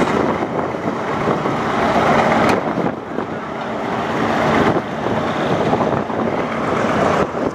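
Steady running noise of a passenger train under way, heard from an open coach window, with a second train moving on the next track. There is one sharp click about two and a half seconds in.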